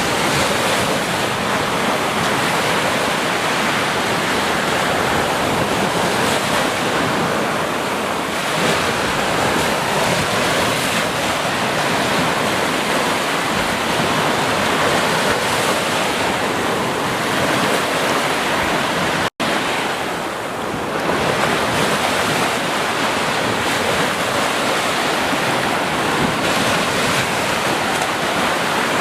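Ocean surf washing continuously onto a beach, a steady rush of breaking waves with gentle swells. There is a momentary cut to silence about two-thirds of the way through.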